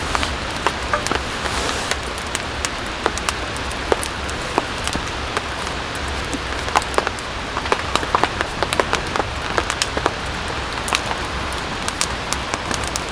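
Steady rain, with many individual drops tapping sharply and irregularly on a surface close by.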